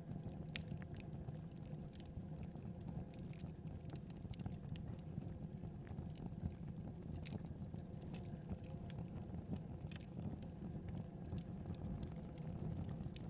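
Wood fire crackling: irregular sharp snaps and pops over a steady low rumble, with one louder pop about six and a half seconds in.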